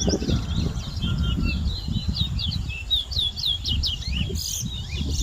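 Towa-towa (chestnut-bellied seed finch) singing a fast run of whistled notes, each sweeping quickly up or down, in a competitive song contest, over a low rumble.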